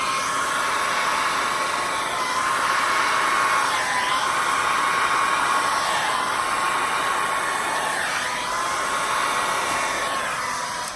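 Handheld hair dryer running steadily, blowing across wet acrylic pour paint: a steady rush of air with a whine whose pitch dips briefly about every two seconds. It cuts off near the end.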